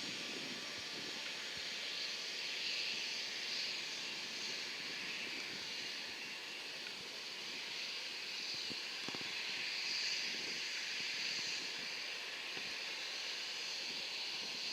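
Jet aircraft engines running, a steady hiss.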